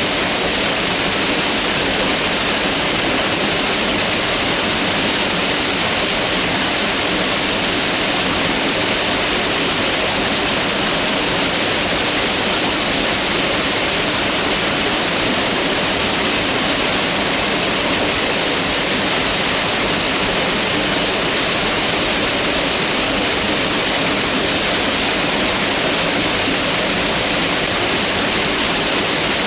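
Mountain river rushing over rocks: a steady, loud rush of water that does not change.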